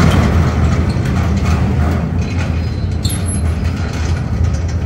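Steady, loud low mechanical rumble, like a heavy engine or a heavy metal gate rolling, with faint rattling over it.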